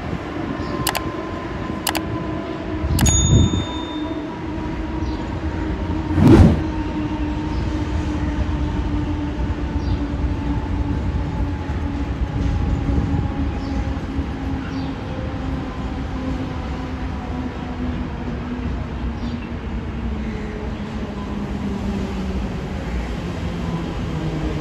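Mumbai suburban electric local train arriving: steady motor whine slowly falling in pitch as the train slows, over a continuous wheel-and-rail rumble. A few sharp knocks come in the first seconds, and a heavier thump comes about six seconds in.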